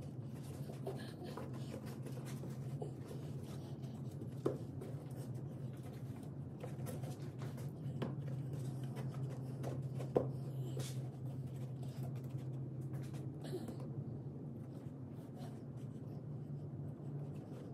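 Light scratching and handling noises with a few sharp knocks, over a steady low hum.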